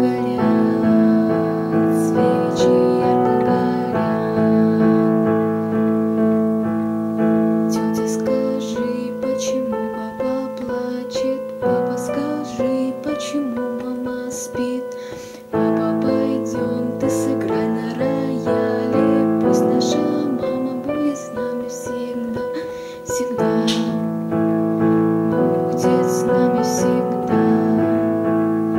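Piano playing a slow melody over sustained chords, with a short pause about halfway through before the playing resumes.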